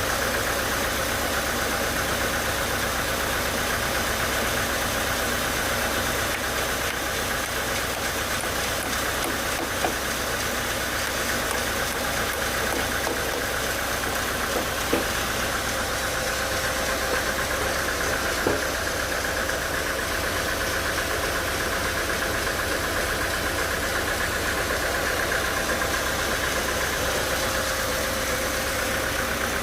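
Sawmill machinery running steadily with a constant whine, with a few short clicks.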